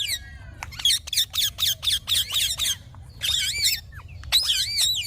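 Ringneck (rose-ringed) parakeet giving a rapid run of short, shrill squawks with a warbling, wavering pitch, about a dozen calls in quick succession.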